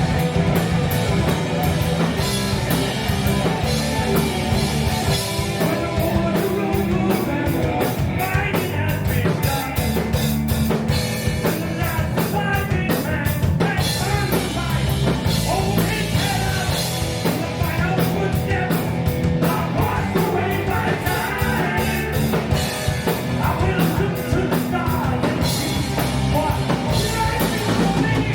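A rock band playing live at full volume: drum kit, guitars and bass, with a singer.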